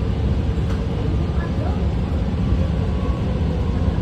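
A BART train running between stations, heard from inside the car: a steady, loud rumble of wheels on rail with a faint steady whine.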